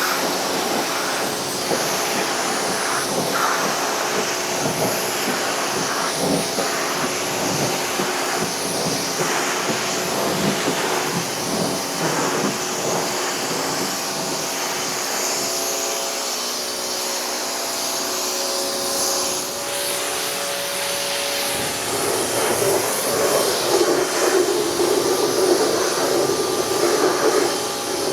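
Pressure washer spraying water onto a truck, a steady hiss of the jet over the hum of its pump motor, growing louder over the last few seconds.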